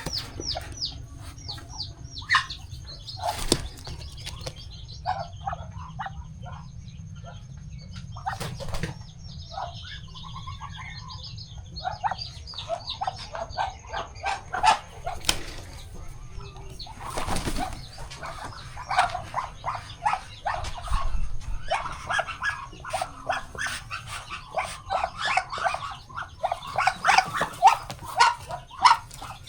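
Farmyard poultry calling: a busy stream of short peeps and clucks, many of the peeps falling in pitch, growing denser in the second half. A few sharp knocks or wing flaps stand out, the clearest about three and a half, nine and seventeen and a half seconds in.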